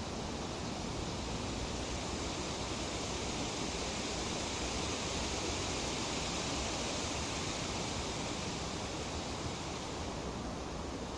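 Breeze rustling through tree leaves: a steady, even hiss that swells in a gust through the middle and eases off near the end.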